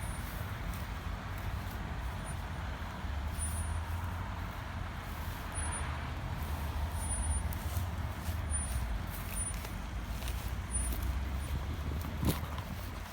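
BMW X5 SUV driving over rough ground: a steady low engine and road rumble, with a sharp knock about twelve seconds in.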